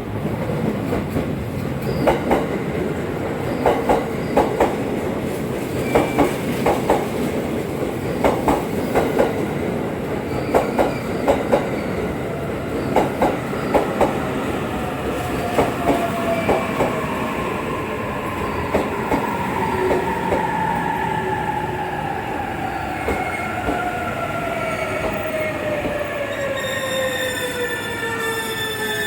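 Limited express electric train pulling into the station, its wheels clicking over rail joints in groups of two and three over a steady rumble. From about halfway a whine falls steadily in pitch as the train brakes, and high squeals join it near the end as it comes to a stop.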